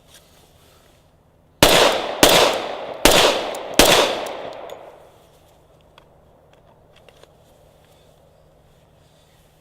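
Glock 21 Gen 4 pistol firing four .45 ACP shots in quick succession, roughly three-quarters of a second apart, each with a ringing tail.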